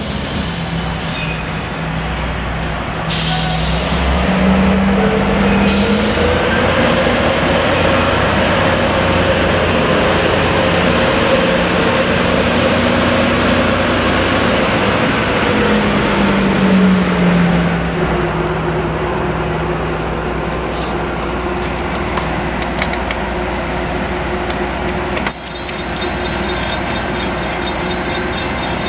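Diesel genset switcher locomotive running as it pulls a freight train slowly past, with a steady engine drone and wheels rolling on the rails. The engine tones bend in pitch as it goes by, and a thin high squeal rises and falls in the middle.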